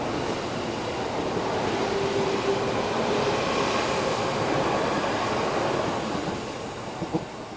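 JR E233-5000 series electric commuter train accelerating out of the station: motor whine and wheel-on-rail noise that swell and then fade as it draws away, with a couple of sharp clicks near the end.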